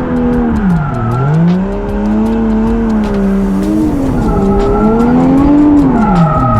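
Toyota Chaser JZX100 drift car's single-turbo engine revving hard, its pitch dropping and climbing as the throttle is worked through the slide, with tires squealing. The revs dip sharply about a second in, again near four seconds, and at the very end.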